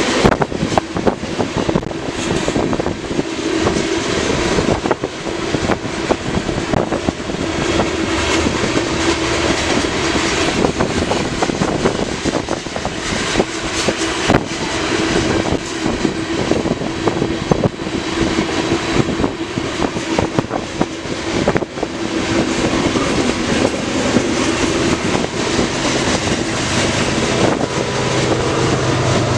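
Freight cars of a CN manifest train rolling past, a loud continuous rumble of wheels on rail full of rapid clicks, with a steady hum running through it.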